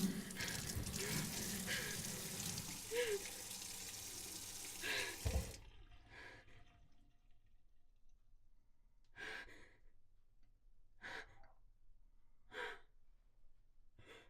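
A steady hiss that cuts off abruptly about five and a half seconds in, followed by a person breathing out heavily, sighing five times.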